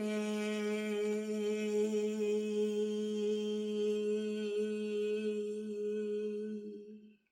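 A woman's voice sustaining one long 'hey' on a single steady pitch for about seven seconds, fading out near the end: the Liu Zi Jue healing sound for the triple burner, voiced on the out-breath to push out stress.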